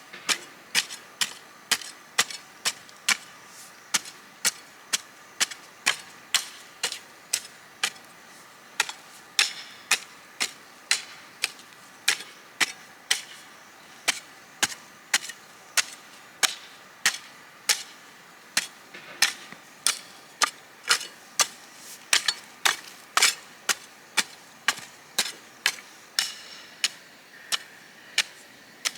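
Steady series of sharp strikes, nearly two a second, of a hand tool hitting something hard, repeated evenly.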